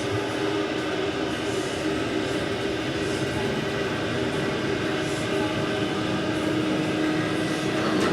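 Steady rumbling hum with a few faint held tones, the background machinery drone aboard a large cruise ship.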